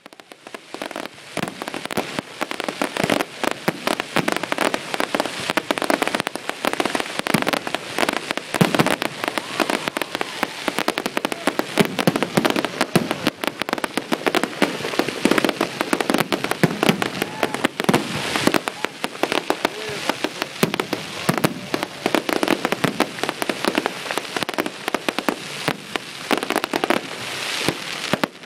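Fireworks display: a dense, continuous run of bangs and crackling reports.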